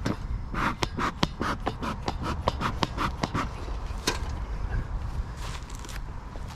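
A quick run of sharp clicks and scrapes, about four a second, thinning out after about three and a half seconds, over a steady low rumble.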